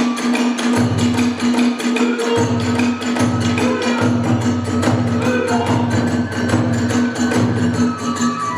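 Kagura music: a fast, steady beat of drum and small hand cymbals, with a high flute melody over it.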